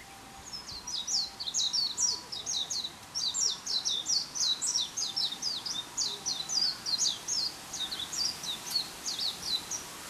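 Songbird singing a long, quick run of high chirping notes that rise and fall. It starts about half a second in and stops just before the end, over a faint steady hiss.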